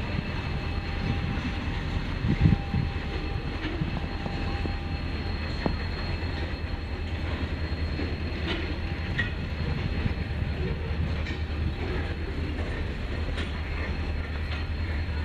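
Freight train rolling slowly through a station behind a GMU-30 diesel locomotive. There is a steady low engine and rolling rumble, with scattered knocks of wagon wheels over rail joints; the loudest knock comes about two and a half seconds in.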